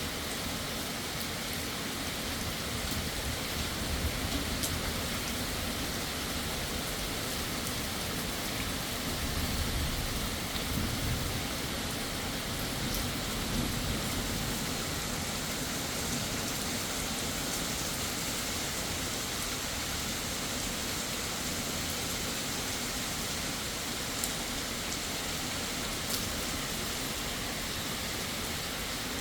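Steady heavy rain with low rumbles of distant thunder swelling a few seconds in and again around ten seconds. There are two sharp taps near the end.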